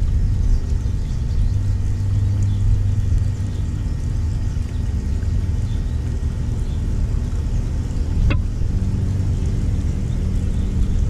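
A steady low engine rumble, with faint high bird chirps above it and a single sharp click about eight seconds in.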